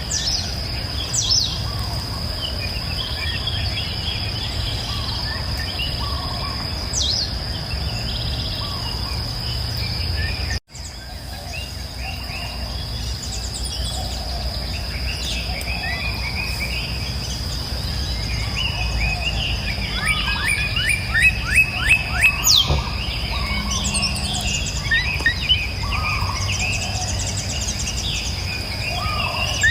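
A chorus of songbirds chirping and singing in short calls and quick whistled glides, over a steady high insect drone and a low steady rushing. The sound cuts out for an instant about a third of the way in, then resumes.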